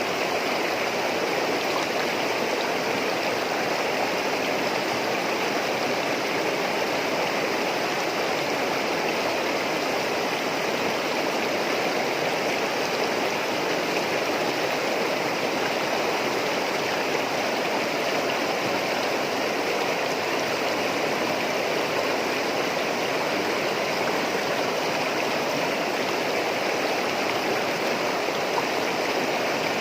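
Running water babbling steadily, like a stream or small water flow, with no change in level.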